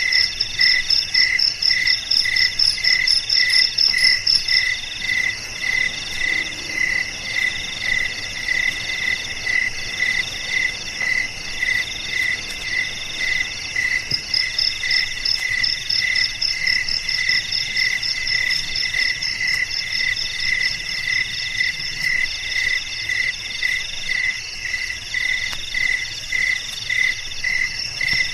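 A chorus of crickets calling steadily: one repeats a short chirp about twice a second, another sings longer trills in a regular cycle, and a third, higher rapid trill drops out about five seconds in and returns about halfway through.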